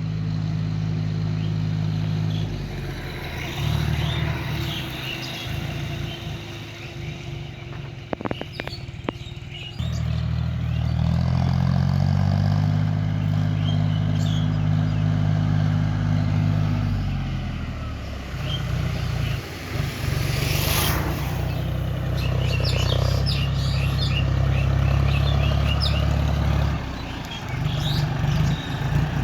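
John Deere 5050 D tractor's three-cylinder diesel engine running, its pitch shifting up and down with engine speed and dropping away briefly several times. Birds chirp in the background, most clearly in the last third.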